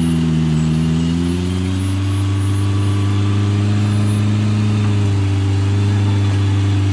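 Engine of an off-road 4x4 running steadily at low revs; its note rises a little about a second and a half in, then holds.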